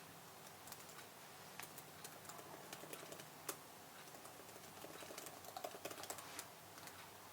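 Quiet typing on a computer keyboard: irregular keystrokes, one much louder key strike about halfway through, and a quicker flurry of keys near the end.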